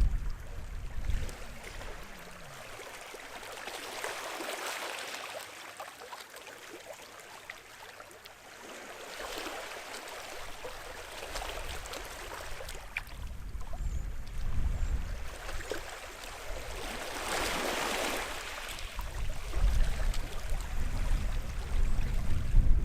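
Waves washing onto the shore, each wash swelling and fading away every four or five seconds, with a deeper rumble near the start and again near the end.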